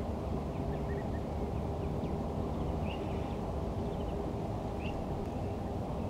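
Faint, short chirps of small birds, scattered about once a second, over a steady low rumble of outdoor background noise.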